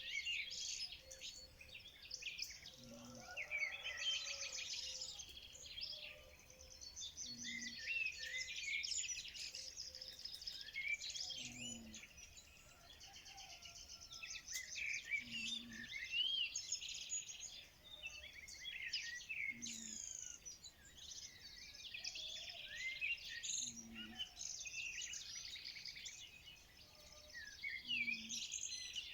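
Many songbirds chirping and singing at once, a dense, overlapping chorus of high warbles and trills. A short low call repeats about every four seconds underneath.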